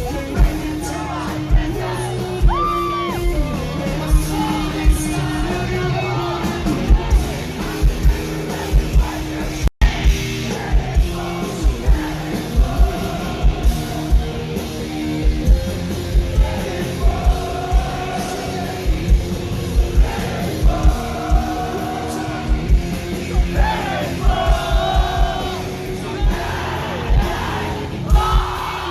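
A rock band playing live at full volume: sung vocals over distorted guitars and a steady run of drum hits, with yelling from the crowd. The sound cuts out completely for a split second about ten seconds in.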